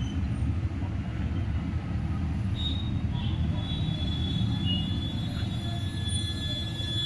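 Insulating tape being pulled off its roll and wound around soldered speaker-wire joints, a thin high squeal from about three seconds in, over a steady low background rumble.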